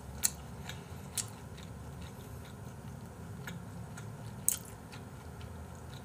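A person chewing raw beef with the mouth closed, close to the microphone, with scattered sharp mouth clicks; the loudest come about a quarter second in, just after a second, and at about four and a half seconds.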